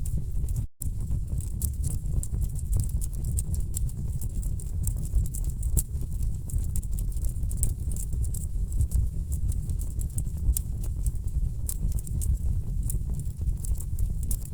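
Wood fire burning in a fireplace, crackling with frequent sharp pops and snaps over a steady low rumble. The sound cuts out for a split second about a second in.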